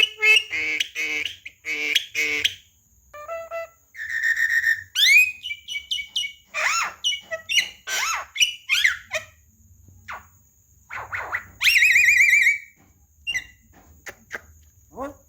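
Javan myna singing a long, varied run of calls: clear whistles, notes that sweep up and down, and harsh rasping calls, one after another with short pauses and a quieter stretch near the end.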